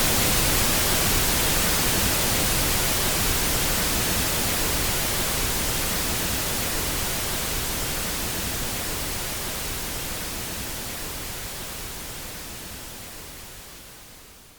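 Pink noise test signal for equalizing sound systems: an even full-range hiss that fades out gradually, growing fainter over the whole stretch until it stops just at the end.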